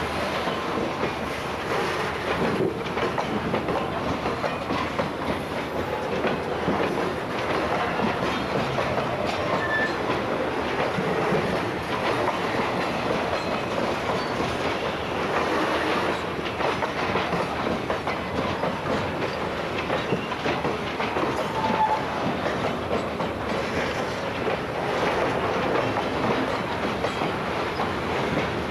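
Freight cars rolling past at steady speed, steel wheels clicking over rail joints, with a few brief wheel squeals.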